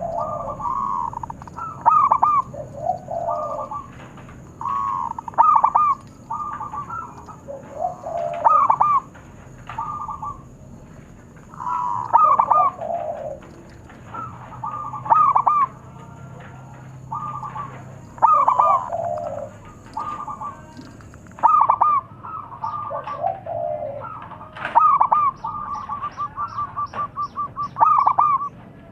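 Zebra doves (perkutut) cooing in repeated phrases, calls from more than one bird overlapping and answering each other. Near the end comes a fast run of evenly spaced notes, about six a second.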